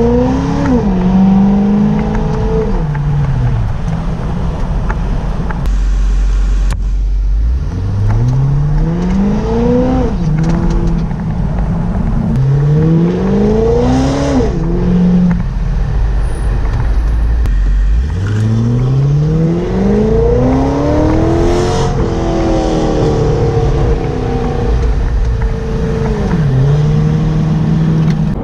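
Supercharged 6.0-litre LS2 V8 of a 2005 C6 Corvette, breathing through SLP headers, an X-pipe and a Corsa Extreme exhaust, running loud and pulling up through the revs again and again, its pitch climbing over a couple of seconds and then dropping away each time.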